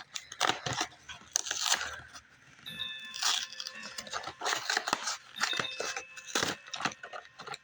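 Plastic wrapper of a peanut butter granola bar crinkling and tearing as it is opened and handled, in irregular crackly bursts.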